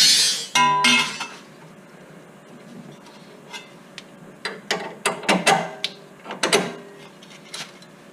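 Metal tools and suspension parts clanking and clinking. A loud clatter at the start ends in a brief metallic ring, then a run of knocks and clinks comes from about four and a half to seven and a half seconds in.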